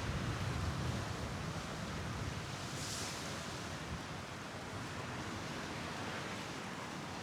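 Steady outdoor wind noise on the microphone, with a heavy low rumble at the start that eases off and a brief hiss about three seconds in.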